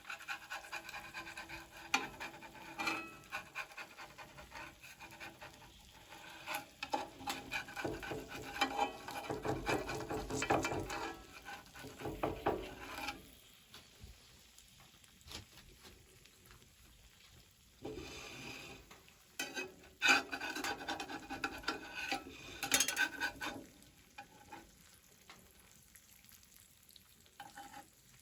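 Cooking in a frying pan: a utensil scraping and stirring against the pan while food sizzles, in irregular spells with two quieter pauses.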